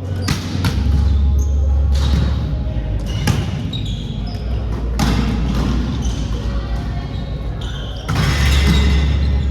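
Volleyball play in a gym hall: the ball is struck or lands with about four sharp, echoing smacks, and there are short high squeaks, likely shoes on the court floor. A low rumble swells twice.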